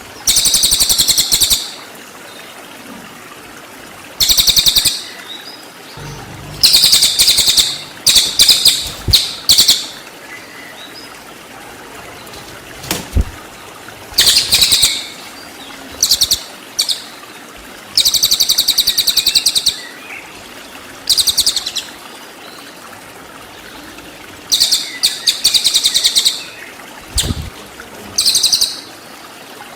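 Cililin songbird singing in short bursts of fast, high, repeated notes, the rapid-fire 'tembakan' phrases, about a dozen bursts with pauses between them.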